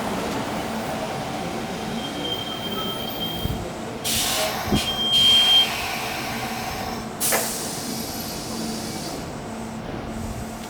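Electric commuter train at a station platform: a steady running hum, a short hiss of air about four seconds in, and a sharp clack a couple of seconds later.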